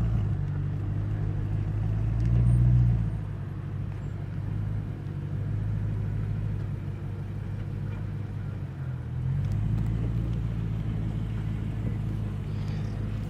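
Car engine running at low speed, a steady low hum as the car is waved forward. It swells over the first three seconds, eases off, and picks up again about nine and a half seconds in.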